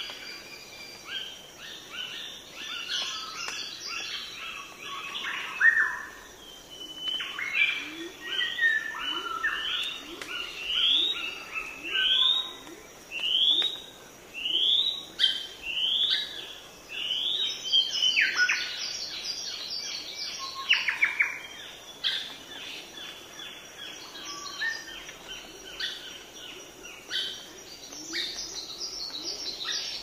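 Several wild birds calling and singing: quick chattering trills and, through the middle, a series of rising whistled notes about one a second. A thin steady high tone runs underneath.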